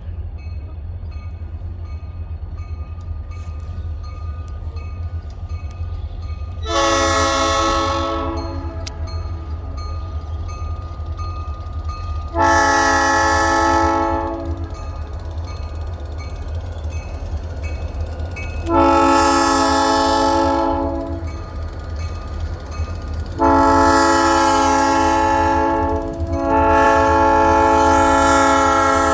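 Approaching EMD SD40-2 diesel locomotives sounding their air horn: five long, loud multi-note blasts several seconds apart, the last two nearly back to back and the last one held on. A steady low rumble runs underneath.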